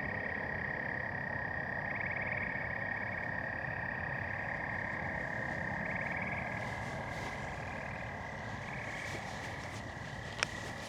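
A chorus of frogs calling steadily, a dense high trilling with louder trills rising out of it every couple of seconds. In the second half, footsteps crunch faintly along the path, and near the end there is a single sharp click.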